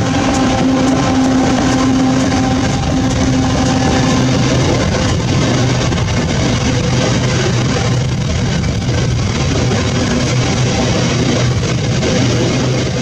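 A container freight train's diesel locomotives running past with a steady rumble, mixed with background guitar music.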